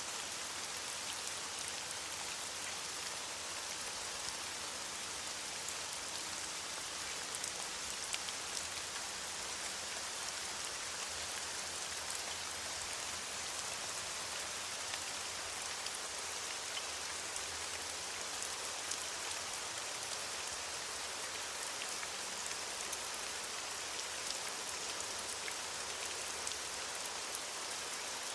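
Steady rain falling on leaves, a continuous patter of many fine drops.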